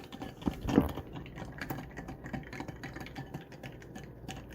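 Plastic toy monster truck being washed by hand in a bowl of water: quick, irregular light clicks and taps with small splashes, the loudest about a second in.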